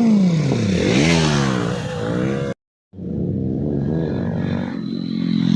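Motorcycle engine revving: its pitch falls and climbs again several times. The sound cuts out abruptly for a moment a little past halfway, then the engine runs again and climbs in pitch near the end.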